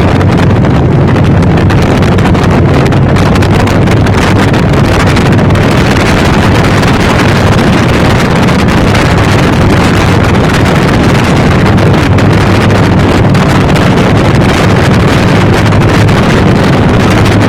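Harley-Davidson motorcycle's V-twin engine running steadily while riding, loud, with heavy wind noise on the microphone.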